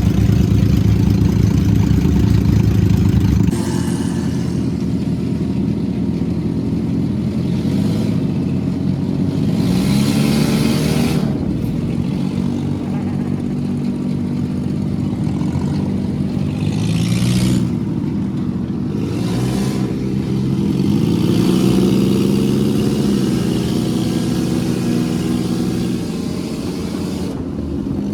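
A vehicle engine running, its pitch rising and falling as it speeds up and slows, with several short rushing noises over it.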